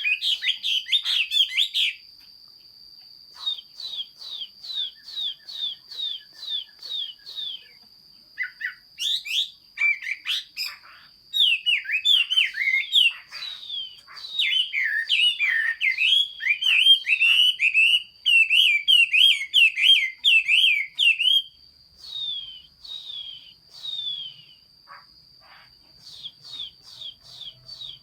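Chinese hwamei (họa mi) singing: long series of repeated, sliding whistled notes, the song dense and loudest from about 11 s to 21 s in, with a steady thin high tone underneath.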